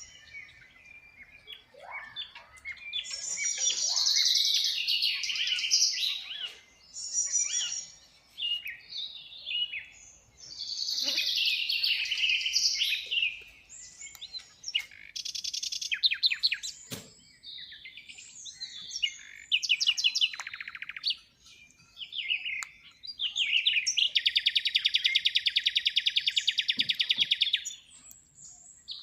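Birds calling and chirping in a busy series of high whistles, glides and short trills, ending in a long, very rapid trill about three-quarters of the way through.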